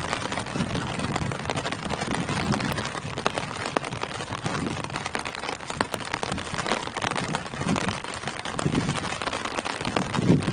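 Steady rain falling on tree foliage: an even hiss of rainfall dotted with countless sharp drop impacts, and a low rumbling swell now and then.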